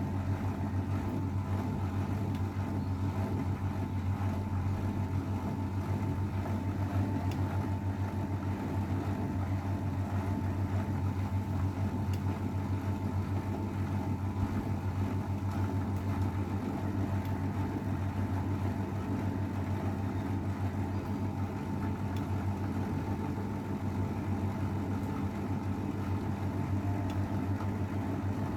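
AEG Öko_Lavamat 693 washing machine running at speed in its final spin: a steady low motor hum with a thin, steady high whine above it.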